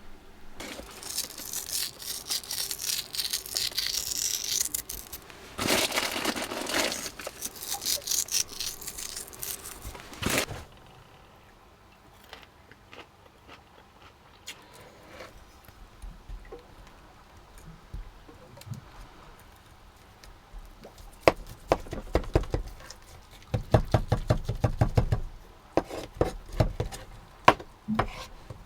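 Handling noises at a meal: about ten seconds of rustling and tearing, then scattered light clicks, and a quick run of cutting or chopping strokes near the end.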